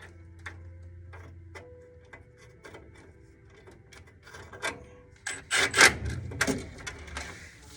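Furnace flame sensor being screwed back into place: a run of small clicks and scraping from the screw and metal parts, with a few louder knocks and rattles about five and a half to six and a half seconds in.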